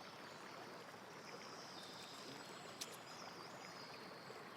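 Faint, steady rush of running water, with a thin high-pitched note over it from about a second in until near the end and one sharp tick a little before three seconds.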